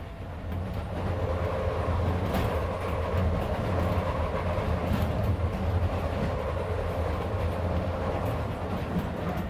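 Interior running sound of a Keisei 3400 series electric train car travelling at speed: a steady hum from the motors and wheels, with a few clicks from the rails.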